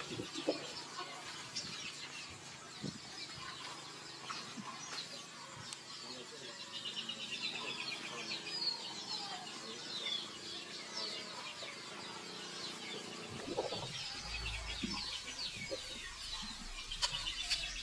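Birds chirping, many short high calls repeating one after another. A low rumble joins in near the end.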